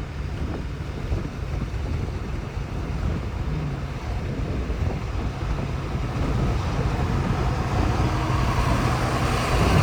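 Jeep Grand Cherokee Trackhawk's supercharged 6.2-litre V8 running on the road, heard from inside the cabin: a low engine drone under an even road and tyre hiss on wet pavement. It grows louder over the last few seconds.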